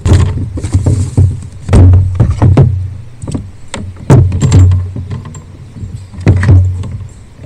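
A run of loud knocks and bumps on a kayak, with a low rumble: close handling noise against the hull.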